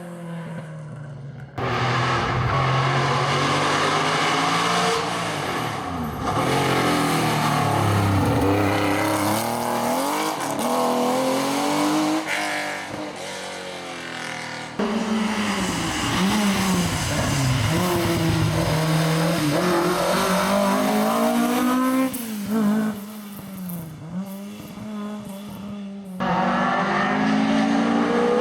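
Historic rally cars at full stage pace, engines revving high and dropping through gear changes as they pass. Several cars are heard in turn, the sound cutting abruptly from one to the next.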